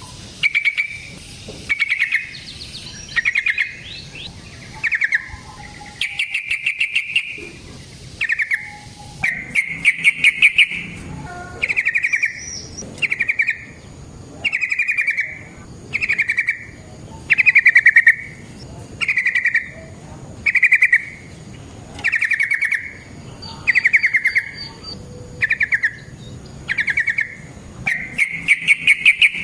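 Yellow-vented bulbul (trucukan) calling over and over: short chattering phrases, each a quick run of notes, repeated about once every second or so.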